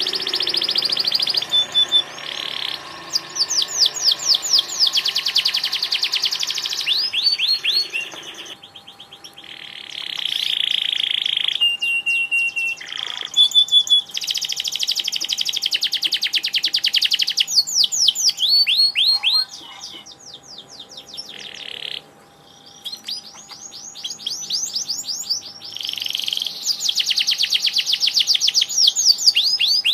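Domestic canary singing continuously in long, fast trilled phrases and rolls, high-pitched, with brief pauses between phrases.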